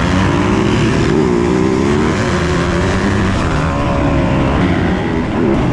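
Several motocross dirt bike engines running and revving, their pitch rising and falling as throttles open and close.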